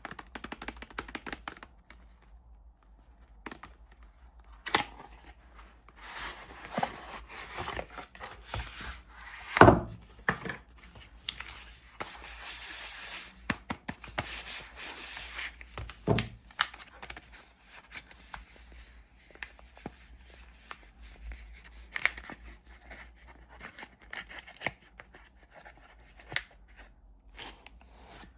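Soap packaging being opened by hand: wrappers crinkling and tearing, with scattered clicks and taps. There is one louder thump about a third of the way in.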